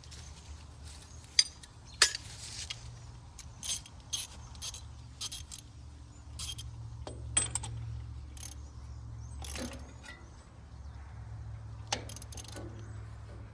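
Ratchet wrench with a spark plug socket working new spark plugs into a Farmall Super C's engine: a run of short ratchet clicks, with a few sharper metal clinks and knocks from the tool.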